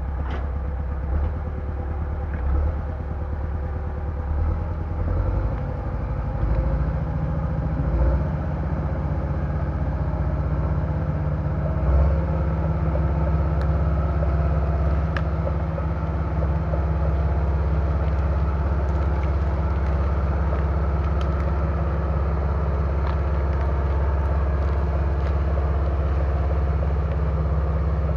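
Diesel bulldozer engine running with a steady low drone and a few clanks in the first seconds. The engine note steps up and gets louder about six seconds in and again near halfway, as it comes under load, then holds steady.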